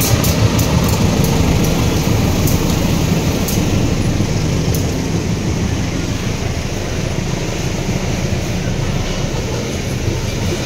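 Two CC 204 diesel-electric locomotives running past close by, their engines giving a low drone that is loudest at first, then coal wagons rolling past with steady wheel-on-rail noise and sharp clicks over the rail joints.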